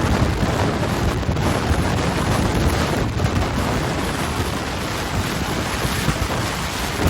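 Strong storm winds from a nearby violent tornado rushing and buffeting the microphone, a loud, unbroken rush of noise.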